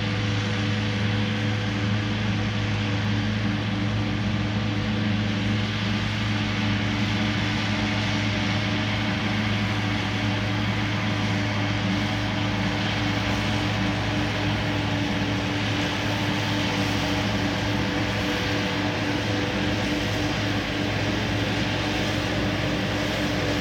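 Large diesel engine running at a constant speed: a steady drone that holds unchanged throughout.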